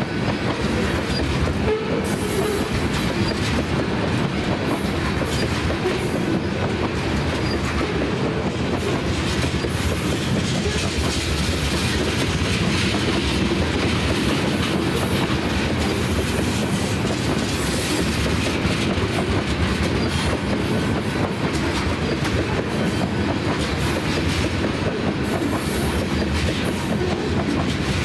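Freight train of tank cars rolling past: a steady rumble and clatter of steel wheels on the rails.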